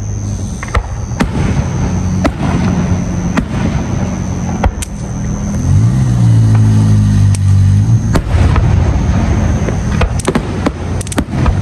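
Fireworks going off: scattered sharp bangs and crackles, coming thick and fast near the end, over a steady low drone that dips and rises in pitch around the middle.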